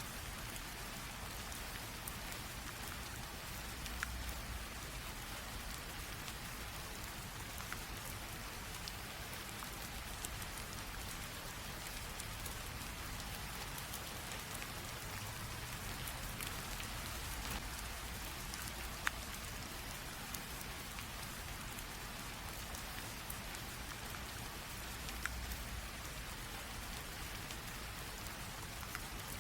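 Steady light rain drizzle: an even hiss of rain with scattered individual drops ticking, a few of them sharper.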